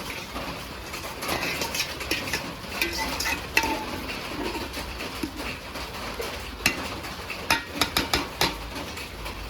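Metal utensils clinking, knocking and scraping against cooking pots, with many sharp clicks over a steady background hiss.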